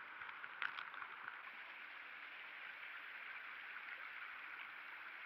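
Steady, faint outdoor background hiss, with one small click about two-thirds of a second in.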